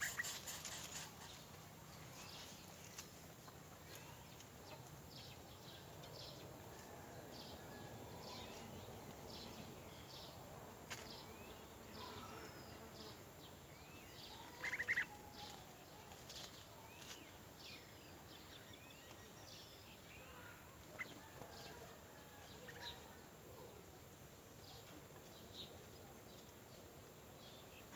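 Birds chirping: many short, high chirps scattered through, with one louder call about fifteen seconds in.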